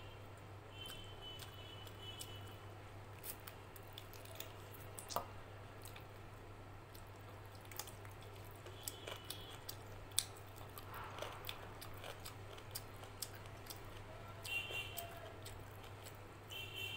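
A person eating by hand close to the microphone: chewing and smacking on rice and chicken curry, with wet squishes, crunches and sharp mouth clicks at irregular moments over a steady low hum.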